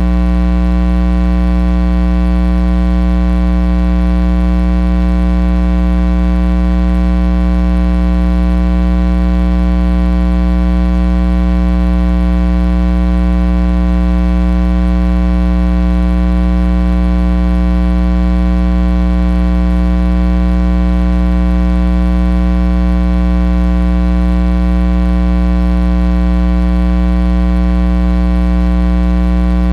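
Loud, steady electrical mains hum, a buzz with many overtones that never changes.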